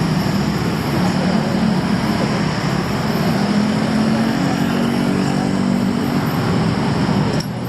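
Road traffic going by close at hand, with vehicle engines running under a steady noise of tyres and city hum. Midway through, one engine's pitch rises as the vehicle speeds up.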